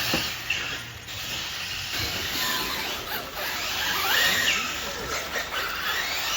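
Electric RC monster trucks racing: motor whines rising and falling in pitch with the throttle over a steady hiss.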